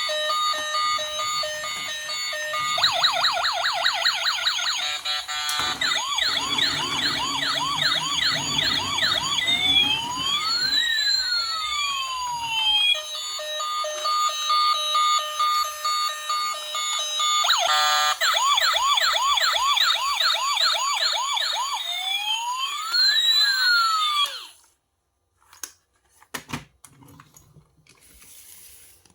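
Toy RC police car's electronic siren sound effect from a small speaker, cycling through steady beeps, fast yelps and slow rising-and-falling wails. It cuts off suddenly about 24 seconds in, leaving a few faint knocks and clicks of handling.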